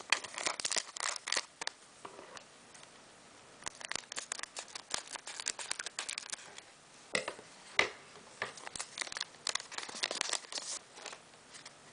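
Scissors cutting open a Pokémon booster pack, with crinkling of the pack wrapper, heard as clusters of short snips and rustles with a brief lull about two seconds in.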